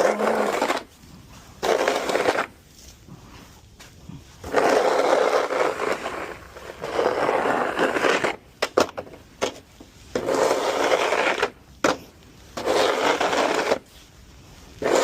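Repeated scraping strokes, each about a second long, coming every second or two with short pauses between.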